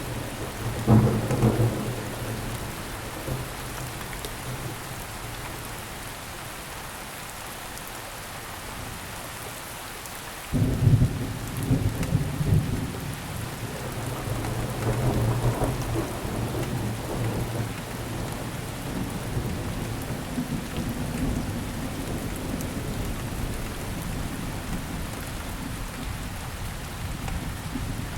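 Steady rain falling on surfaces, with thunder rumbling. A sudden loud thunderclap comes about ten seconds in and rolls on for several seconds before fading back under the rain.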